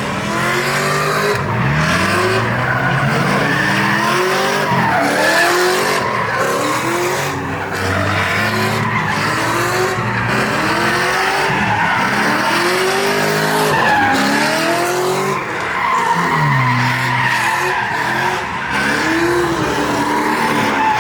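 A car's engine revving up and dropping again over and over, about every one to two seconds, over a steady squeal of spinning tires: a car doing donuts at a street takeover.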